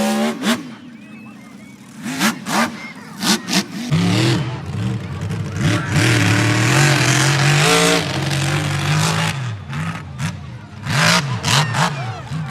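Monster truck engine revving, its pitch rising and falling over and over, loudest near the middle.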